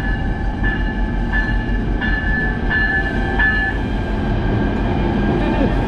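Train running on the rails with a steady rumble. A short high squeal repeats about every 0.7 s through the first half.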